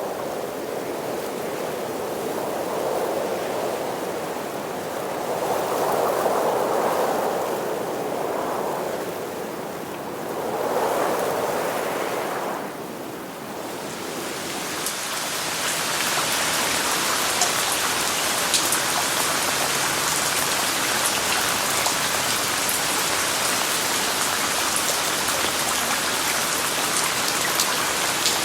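Slow swells of rushing noise rise and fade every few seconds, then give way about halfway through to steady rain, a dense hiss with the patter of individual drops.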